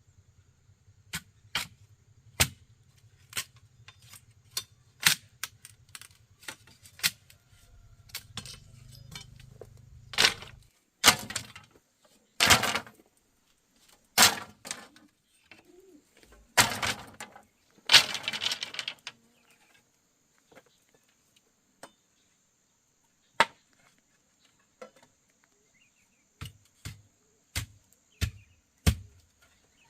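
Irregular sharp knocks and taps of building work on a wooden chicken coop, with a few longer scraping, rustling stretches near the middle.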